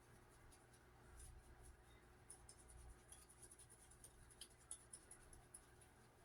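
Faint, quick light ticks and patter, like seasoning being shaken from a shaker onto steak, over a low room hum.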